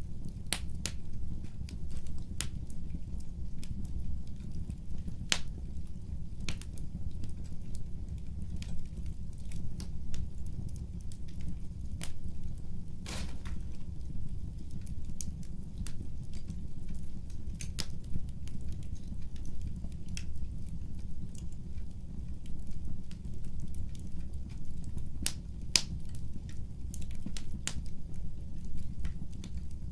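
Wood fire burning: a steady low rumble with irregular sharp crackles and pops, one stronger snap about halfway through.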